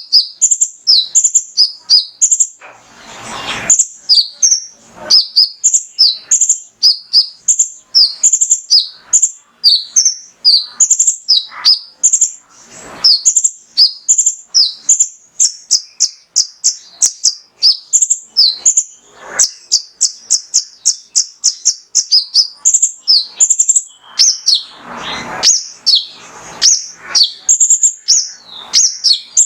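A male kolibri ninja sunbird singing a fast, unbroken run of sharp, high chirping notes, about two to three a second, with a few brief rustles between them.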